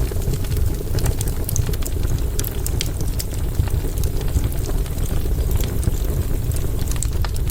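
Campfire burning: a steady low rush of flame with frequent sharp crackles and pops at irregular intervals.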